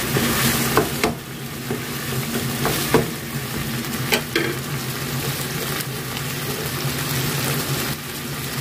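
Squid and bell peppers sizzling in sauce in a non-stick frying pan as they are stir-fried, with several sharp clicks and scrapes of the stirring utensil against the pan in the first half.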